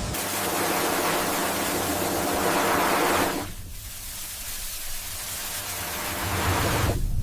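High-pressure hot-water jet spraying with a steady rushing hiss. It eases off about three seconds in, builds again, and cuts off near the end.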